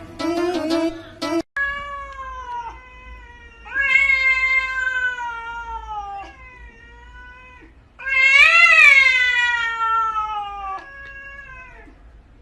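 A cat meowing in a run of about five long, drawn-out calls, each sliding down in pitch at its end; the loudest call comes about eight seconds in. Song music plays briefly at the start before cutting off.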